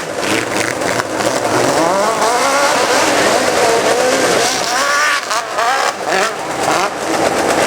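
Hill-climb motorcycle engine revving hard, its pitch rising and falling again and again as the throttle is worked.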